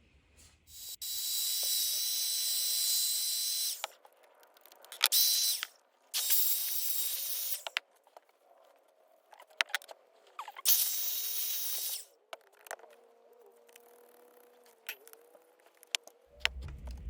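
Parkside Performance PWSAP 20 Li C3 cordless angle grinder switched on and run four times in short bursts, each a high steady whine that stops again. Scattered clicks come between the runs.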